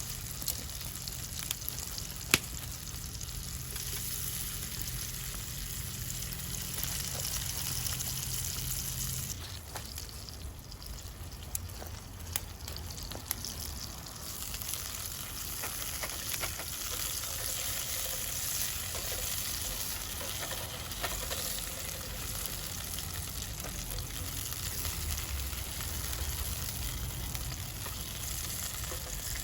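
Food frying in a pan over a campfire, a steady sizzle with a few sharp ticks.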